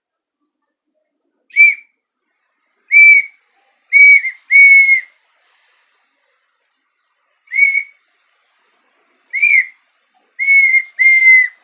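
Handmade wooden three-sound bird call (pio) blown on its partridge setting, imitating the song of the perdiz (red-winged tinamou). It gives two phrases of about four clear whistled notes, each note arching up and down in pitch, and the last note of each phrase is held longer.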